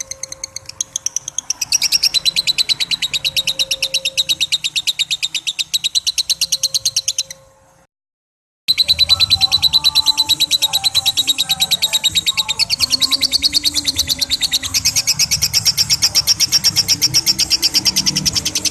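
Lovebird ngekek: a long, rapid chattering trill of sharp, high, evenly repeated notes. It breaks off about seven seconds in for roughly a second of silence, then starts again and runs on.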